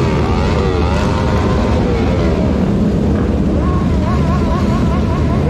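Motorcycle engines of a riding group running and revving together over a heavy rumble, their pitches gliding up and down; from about two thirds in, one higher tone wavers up and down at a regular pace.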